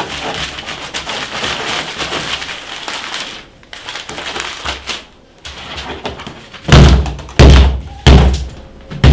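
Papers and objects on a table rustling and being handled, then four heavy, deep thumps in quick succession near the end, the loudest sounds here.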